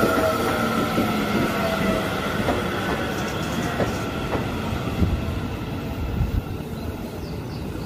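Seibu 30000 series electric commuter train moving slowly past a platform: a steady whine from the train fades away, and the wheels click over rail joints a few times.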